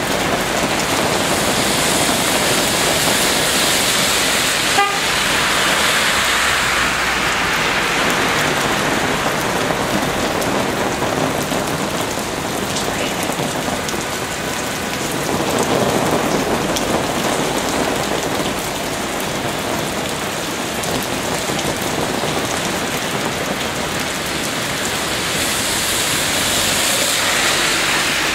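Rain pouring down steadily, with a few swells of louder rushing as vehicles pass through the flooded street.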